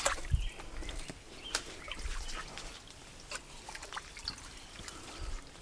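Wet muck being scooped out of a spring's water hole: scattered knocks, scrapes and sloshes, with water trickling.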